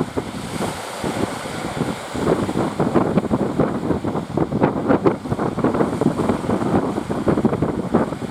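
Wind buffeting the microphone over the rush of sea surf, a rough crackling noise that grows louder about two seconds in.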